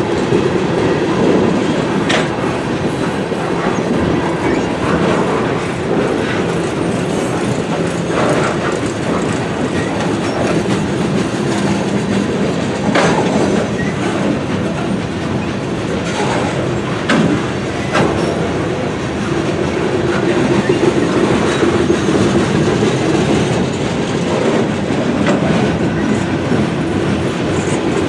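Freight cars of a manifest train rolling past: steady noise of steel wheels on rail, with scattered sharp clicks as wheels cross rail joints.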